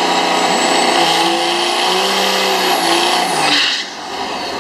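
Diesel pickup truck engine running hard under load, with a high whine above it that rises slowly; the sound drops off sharply about four seconds in.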